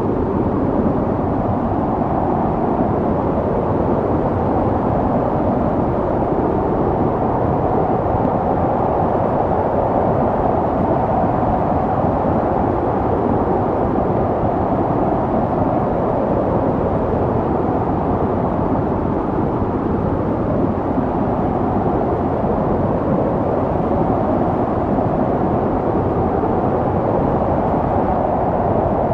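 Snowstorm wind blowing steadily, a dense even rush with a slowly wavering tone in it as the gusts rise and fall.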